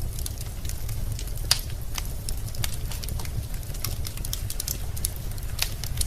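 Wood fire crackling in a fireplace: a steady low rumble of the flames with frequent sharp pops and crackles from the burning logs, the loudest about a second and a half in and again near the end.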